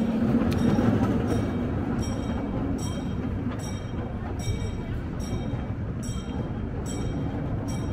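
Small open-car zoo train running along its track: a steady rumble with a rhythmic metallic ring about three times every two seconds.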